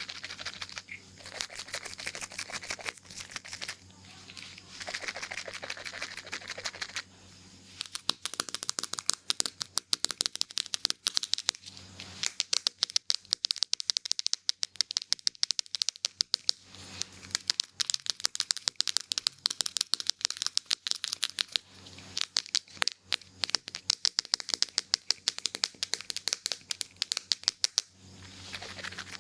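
Scissors snipping hair in a fast, dense run of sharp clicks, close to the microphone, starting about a quarter of the way in and running until shortly before the end. Before that come several short hissy rustling strokes.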